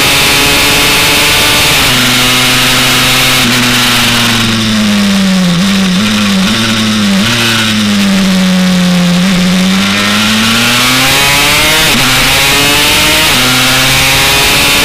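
Single-cylinder two-stroke engine of a Honda CR track bike (a Honda TRX 250R engine enlarged to 327cc) running hard. Its revs fall as it slows for a bend, with a few brief rises, then climb again as it accelerates out. Wind noise on the microphone runs underneath.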